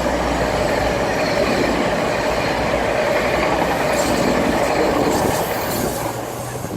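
Class 222 Meridian diesel-electric multiple unit going by close to the platform, its diesel engines and wheels on the rails loud and steady, then easing off near the end.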